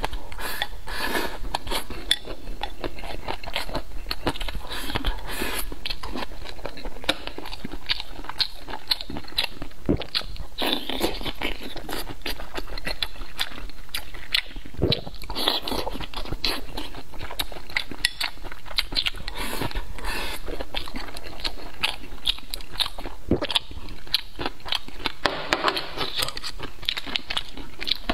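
Close-miked eating: mouthfuls of black rice and steamed green pepper being bitten and chewed, in a dense run of short clicks and crunches. Chopsticks scrape against a ceramic rice bowl.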